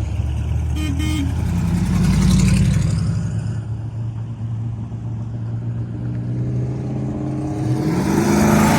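Car engines running at low speed with a deep, steady note that swells about two seconds in; near the end one engine's note rises and then falls in pitch.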